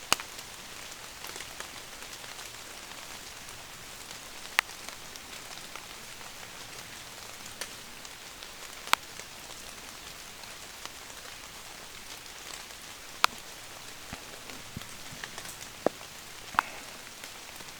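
Steady rain falling, an even hiss, broken every few seconds by a sharp single tick, about five in all.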